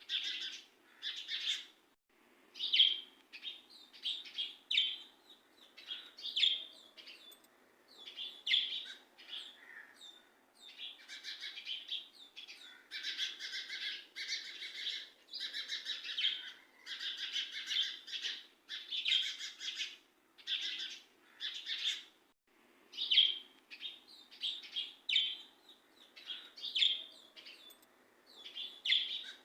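Birds chirping and twittering in quick bursts, with short pauses between the runs of calls.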